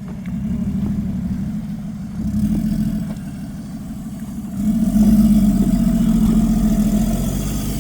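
Off-road SUV engine revving hard in three surges, the last and loudest held for a few seconds, as the vehicle is driven forward under heavy load through deep snow.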